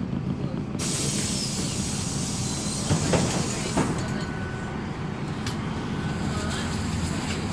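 MAZ-103 city bus's compressed-air system letting out a sudden loud hiss for about three seconds, with two knocks near its end, over the low, steady running of the engine.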